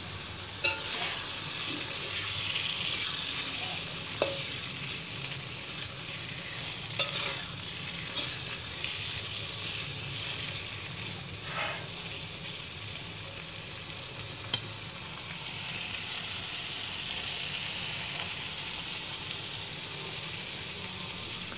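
Sliced eggplant and ground spice paste sizzling in oil in an aluminium wok while being stirred. A metal spatula scrapes and clicks against the pan now and then.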